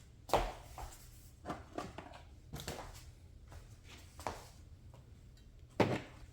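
Hands handling and working on the small plastic and metal parts of an RC car: a scattered series of short clicks and knocks, the loudest about half a second in and again near the end.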